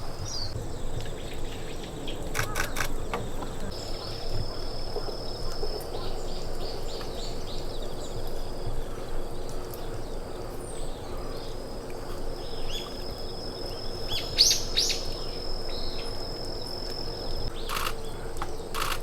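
Small forest birds chirping in short high runs over a steady high-pitched tone and a low background hum, with a few sharp clicks about two and a half seconds in and again near the end.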